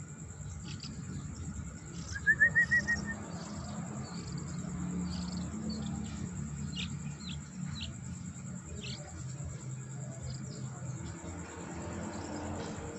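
Young yellow-vented bulbul chirping: a quick run of about six short rising notes a little over two seconds in, and scattered short, high cheeps through the rest.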